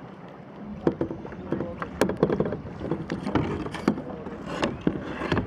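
Water splashing and slapping against a small sailboat's hull under way, with irregular knocks and clatters.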